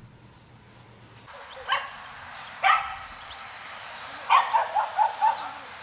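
A dog barking: two single barks, then a quick run of four or five near the end.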